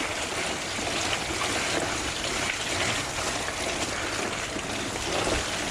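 Fat bike rolling along a wet, muddy dirt trail: a steady rushing noise of the tyres on the ground and wind on the microphone.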